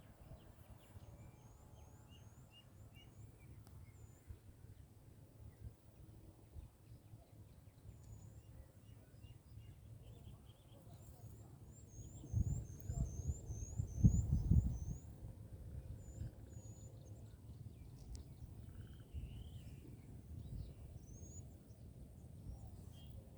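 Wild birds chirping outdoors: runs of short, quick, high chirps repeated several times in a row, over a faint steady background. About halfway through, a louder low rumbling noise lasts a few seconds.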